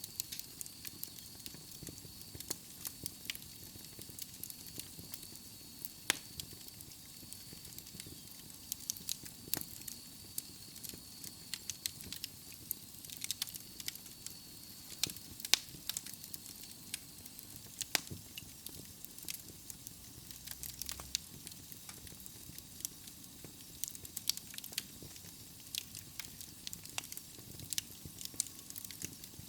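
Wood fire burning in a fireplace: logs crackling and popping in sharp, irregular snaps over a steady soft hiss. A faint thin high whistle runs under it for about the first half, then fades out.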